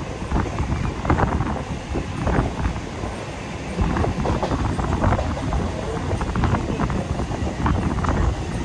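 Mumbai suburban local electric train running along the track: a steady rumble with scattered clatter.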